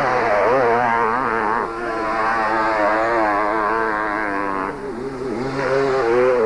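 Motocross bikes racing, their two-stroke engines revving up and down with the throttle so the pitch keeps wavering. The sound changes abruptly twice along the way.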